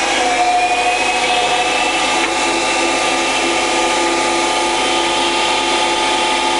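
Harrison VS330 variable-speed centre lathe running at high spindle speed, about 2000 to 2600 rpm, a steady mechanical whine with several tones. The tones rise a little early on as the speed is wound up, then hold steady.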